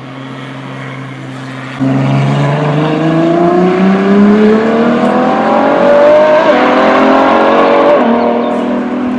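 Performance car engine accelerating hard from a steady low note, its pitch climbing through the revs with two quick upshifts, the second near the end.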